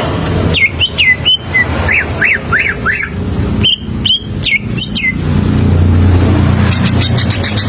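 Green leafbird (cucak ijo) singing two quick phrases of sharp whistled notes sliding up and down, over a steady low rumble that grows louder in the second half.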